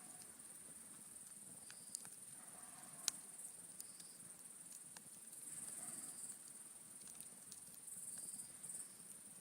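Wood campfire crackling quietly, with scattered sharp pops, the loudest about three seconds in.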